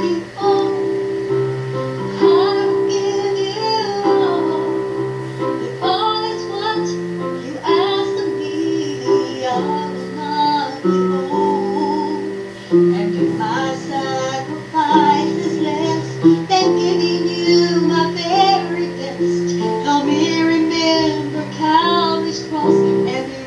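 A song playing: a woman sings a melody in long, held notes over instrumental backing.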